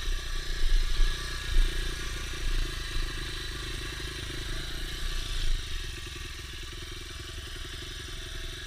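Dirt bike engine idling steadily, with a few louder low bumps in the first couple of seconds. The idle is set way too high.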